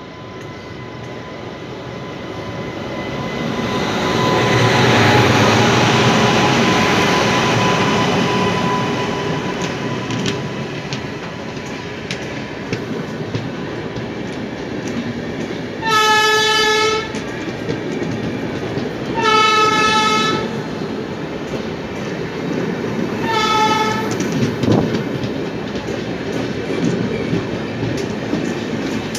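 A train passing close by on the next track: its rumble swells as it comes alongside, then the steady clatter of its coaches' wheels runs on. A locomotive horn blows three times about halfway through, each blast about a second long and a few seconds apart.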